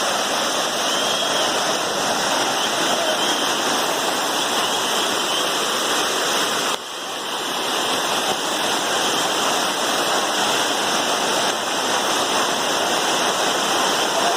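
Steady rush of water falling from a waterfall, with a brief drop in level about halfway through.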